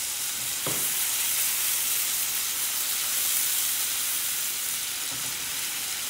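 Ginger-garlic paste sizzling steadily in hot oil in a non-stick frying pan as it is stirred with a slotted spatula. There is a short knock a little under a second in.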